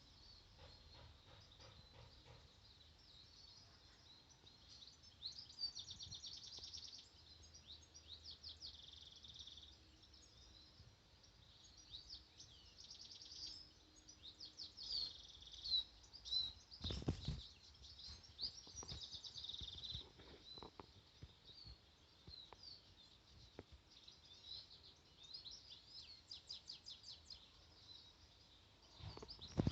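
Small birds singing and chirping, with high trills and twitters coming and going, faint against a quiet background. A single thump about halfway through.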